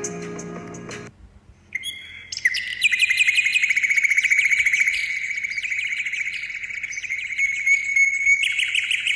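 A bird singing a long, fast trill of rapidly repeated high notes on one pitch. It starts about two seconds in, after background music cuts off.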